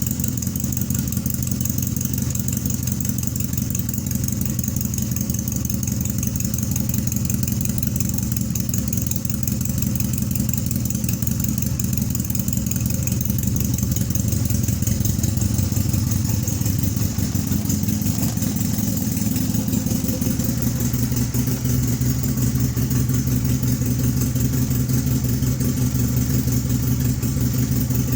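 1986 Honda engine idling steadily while warming up after a cold start at about 40°F; the idle note shifts slightly about two-thirds of the way through.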